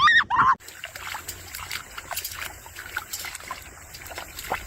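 A few short, high, rising-and-falling yelps. About half a second in they give way to water trickling and splashing lightly, with many small clicks.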